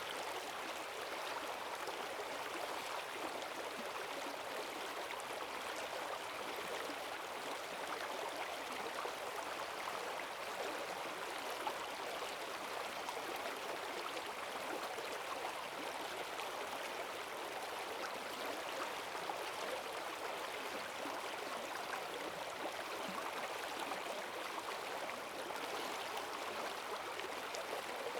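A forest stream swollen with rainwater, rushing and gurgling over its bed in a steady, unbroken flow.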